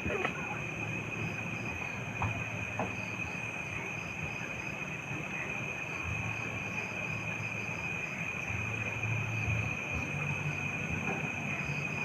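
Night chorus of crickets or similar insects: a steady, unbroken high-pitched trill, with a low murmur underneath and a few faint clicks.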